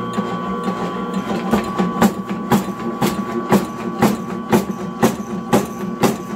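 Motor-driven medicinal-herb cutting machine running with a steady hum, its blade chopping through the material in sharp, even strokes about twice a second, starting about a second and a half in.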